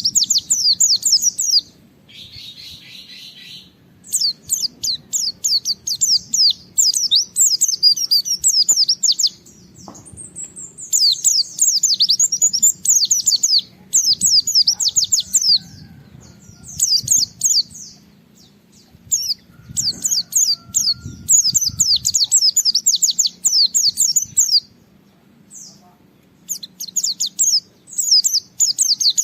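White-eye (pleci) singing a rapid, high twittering song in phrases a few seconds long, broken by short pauses.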